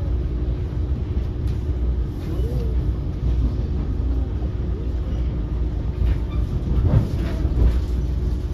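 Inside an NJ Transit Arrow III electric multiple-unit car under way: the steady low rumble of the moving train, with a constant hum and a few scattered clicks and knocks. The rumble gets briefly louder about seven seconds in.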